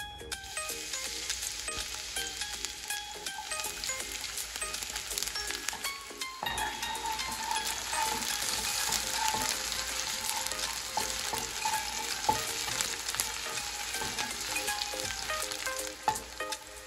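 Chopped spring onion sizzling in hot oil in a nonstick frying pan, stirred with a wooden spatula that gives scattered light scrapes and taps against the pan. A steady hiss, a little louder after a short break about six seconds in.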